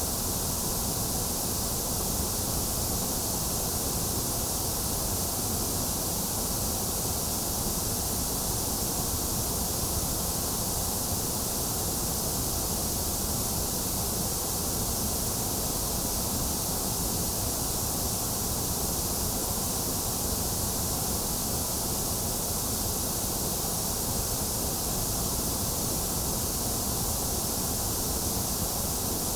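Steady, unbroken white noise from a baby sleep-aid track: an even hiss, brightest in the high end, with a dip in the upper middle range.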